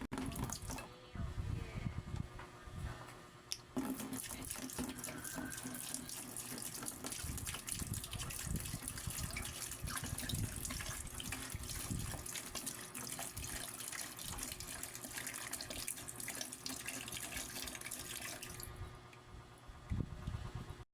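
Water running steadily from a tap, shutting off about nineteen seconds in, followed by a brief knock near the end.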